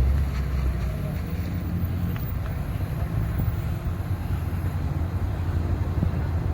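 Low, steady rumble of car engines running.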